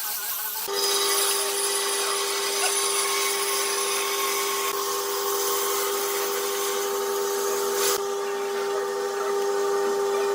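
An electric power tool running at a steady speed with a steady whine, starting up about a second in.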